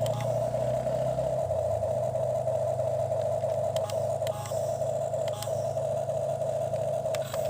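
Toy excavator's small electric motor running with a steady whine and low hum, with a few sharp clicks and clatters.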